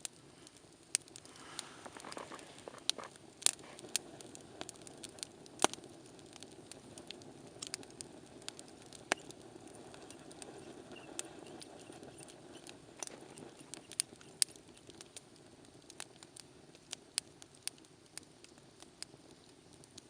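Wood campfire crackling, with frequent irregular sharp pops and snaps over a soft steady rush of flame.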